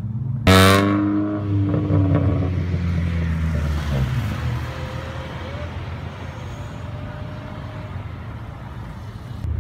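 A car engine revs sharply about half a second in, its pitch falling as the revs drop, then keeps running and slowly fades as the car drives away across the lot.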